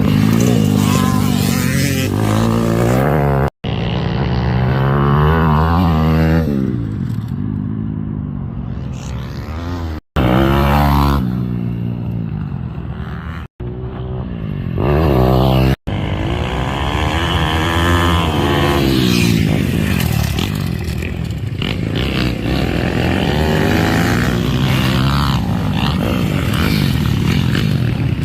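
Pit bike engine revving hard around a motocross track, its pitch rising and falling over and over as the rider accelerates and backs off. The sound is broken by several abrupt cuts.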